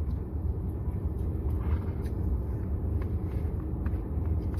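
Steady low rumble of a car heard from inside the cabin, with a few faint small clicks.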